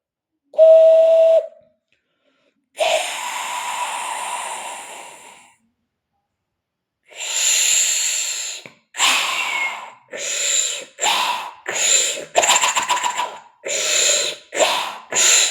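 A man imitating a coal-fired steam locomotive with his voice: a short steady whistle, a long hiss of steam, then puffing chuffs that come closer and closer together as the engine pulls away from the station.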